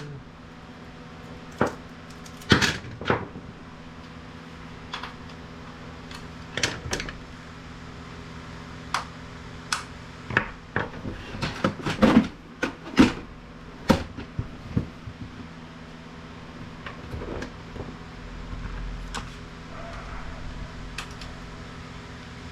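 Hard plastic printer parts clicking and knocking as they are handled and pulled apart: scattered sharp clicks, with a busier run of knocks in the middle, over a steady low hum.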